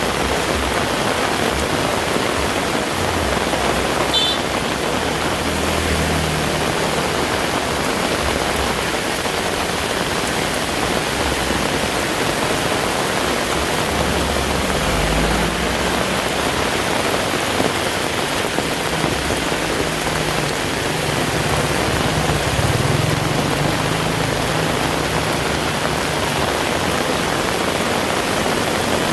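Heavy rain falling steadily, a dense even hiss, with low rumbling that comes and goes underneath and a single brief tick about four seconds in.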